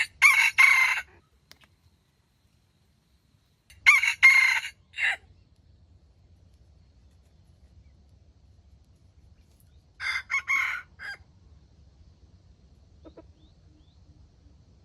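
Junglefowl rooster crowing three times, each crow short and broken up, about a second long; the third crow is fainter.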